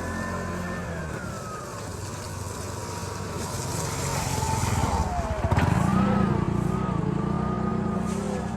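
Motor vehicle engines on the street, one passing close by and loudest about five to six seconds in, its pitch dropping as it goes past, then an engine running steadily.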